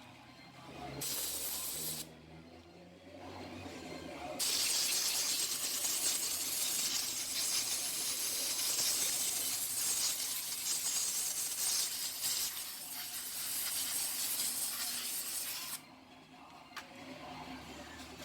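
Compressed-air blow gun blasting air through a cleaned motorcycle carburetor to clear clogged passages. A short blast about a second in, then one long blast of about eleven seconds that stops suddenly.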